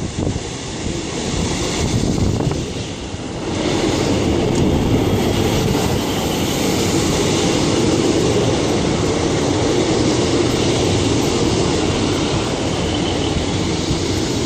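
Two coupled British Rail Class 150 Sprinter diesel multiple units running into a platform, engines and wheels on the rails making a steady rumble that grows louder about three and a half seconds in and then holds.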